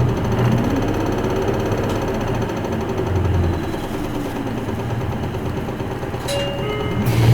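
Isuzu Erga Mio city bus's diesel engine running under way, heard from inside the cabin. The engine note rises in pitch during the first second or so. A few short steady tones sound near the end.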